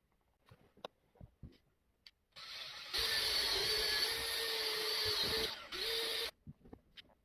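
Handheld power drill running into the wood at the base of a carved antler: a steady whir for about three seconds, a brief stop, then a short second burst. A few faint knocks and handling clicks come before it.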